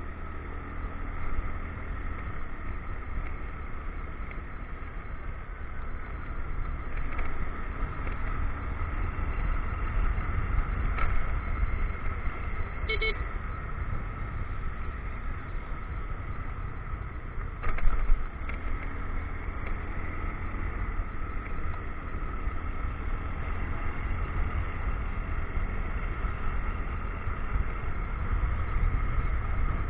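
Motorcycle riding along a rough road, its engine running steadily under a heavy rumble of wind on the microphone. A short beep sounds about thirteen seconds in, and a sharp knock from a jolt over the road comes a few seconds later.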